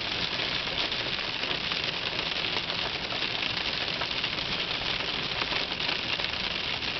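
Hail pelting down in a dense, steady clatter of countless small hits.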